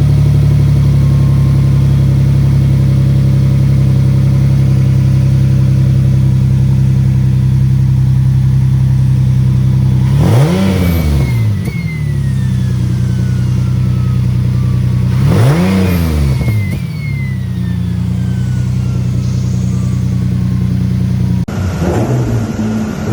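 Single-turbo Nissan 370Z's VQ37VHR V6 idling steadily, then revved sharply twice, about ten and fifteen seconds in. After each rev a thin whistle falls slowly in pitch as the turbo spools down. Near the end the sound cuts to another stretch of the engine running.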